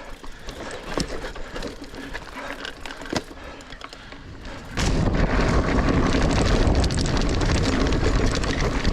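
A Niner Air 9 RDO 29er mountain bike clattering over rough singletrack, with scattered sharp clicks and knocks from the frame and drivetrain. About five seconds in, a loud, steady wind rumble on the microphone starts suddenly and covers the rest.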